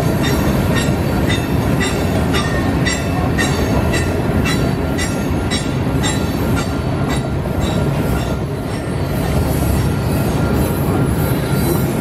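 Freight cars (covered hoppers, then an autorack) rolling past close by: a steady rumble of steel wheels on rail with a thin, high wheel squeal. A regular clicking of wheels over the rail joints comes about twice a second and fades out a little past halfway.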